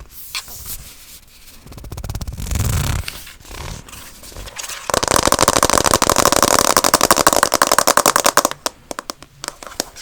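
Very fast scratching and tapping with fingernails on hard objects, dense rapid strokes that swell in and out. The loudest and most intense run of scratching starts about halfway through and eases off near the end.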